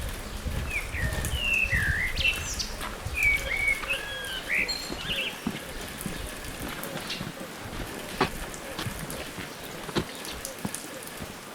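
A small bird chirping a series of quick rising and falling whistled notes in the first half, over a steady outdoor hiss, with a few sharp ticks later on.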